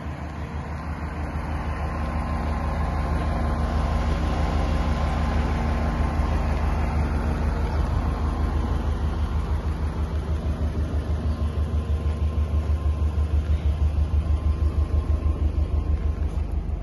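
Subaru Impreza WRX STI wagon's turbocharged flat-four engine, tuned to about 350 bhp, idling steadily with a low, slightly pulsing rumble.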